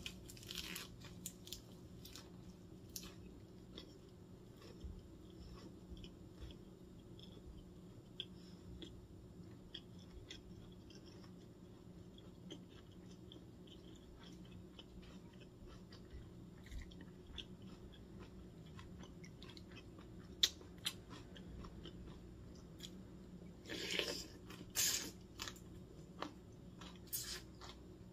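Close-up chewing of a lettuce-wrapped rice ball, with small crisp crunches of fresh lettuce leaf. Near the end come a few louder slurps as spoonfuls of cold cucumber-and-seaweed soup are sipped.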